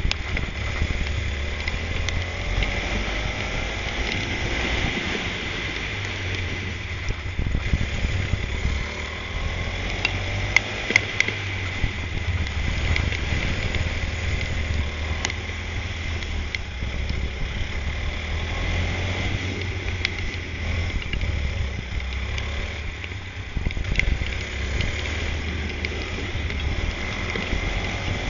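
Go-kart engine running and revving up and down through a race, with heavy wind rumble on the onboard microphone.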